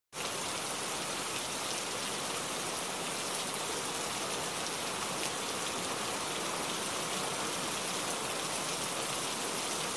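Steady rain falling onto a puddle and wet pavement, an even hiss of many drops that starts just after the beginning and holds level throughout.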